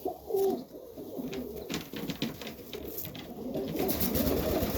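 Serbian highflyer pigeons cooing in a loft: low, rolling calls repeating throughout, with scattered light clicks and rustles.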